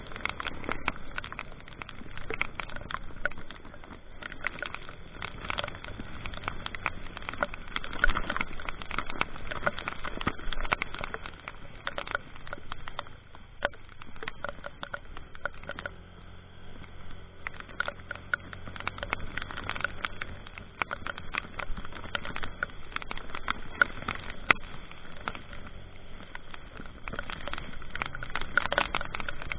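Rain pattering in dense, irregular drops, with a vehicle's engine running steadily underneath.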